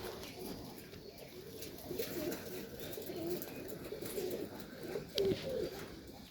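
Domestic pigeons cooing: a run of low, wavering coos overlapping one another, with a brief sharp tick about five seconds in.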